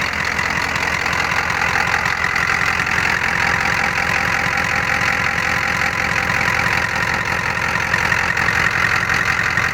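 A 1988 Ford F-250's 6.9-litre IDI diesel V8 idling steadily, with the rumbling clatter of an indirect-injection diesel.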